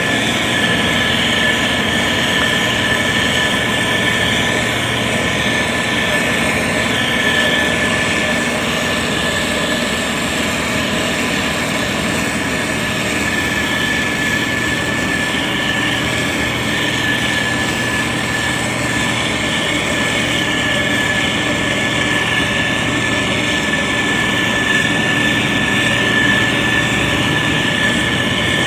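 SANY STG190C-8S motor grader running steadily under work, its diesel engine noise topped by a constant high-pitched whine.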